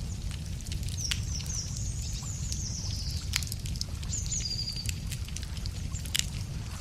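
Wood fire crackling, with sharp irregular pops. A small bird sings high phrases of short falling notes behind it, and a steady low rumble runs underneath.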